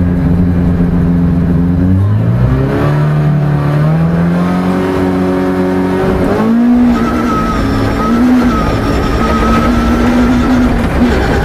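Peugeot 306 rear-wheel-drive rally car's engine, heard from inside the cabin: it runs steadily for about two seconds, then the revs climb for a few seconds before the car launches a little over halfway through and accelerates away.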